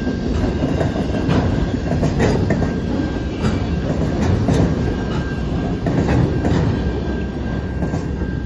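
Freight train of autorack cars rolling slowly past, a steady low rumble with irregular clicks and clatter from the wheels on the track and a thin steady high tone. The sound starts to fade near the end as the last car goes by.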